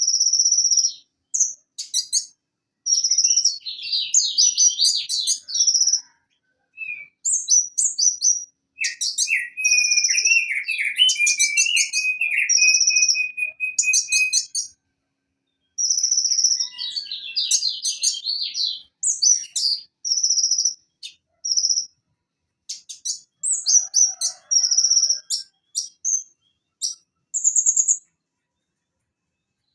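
Purple-throated sunbird (konin, Leptocoma sperata) singing: rapid bursts of high-pitched chirps and sharp twittering phrases, with a lower rattling trill in the middle.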